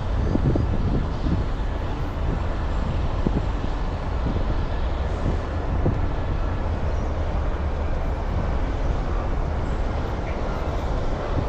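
Steady outdoor city ambience dominated by a low traffic rumble, with a few soft thumps in the first few seconds.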